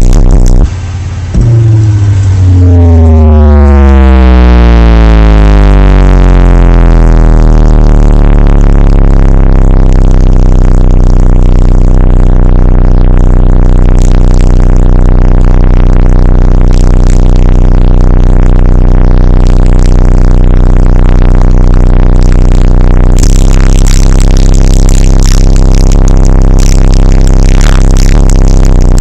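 Car audio subwoofers playing an extremely loud bass tone that glides down in pitch over the first few seconds, then holds as a steady deep drone full of overtones. More hiss joins near the end.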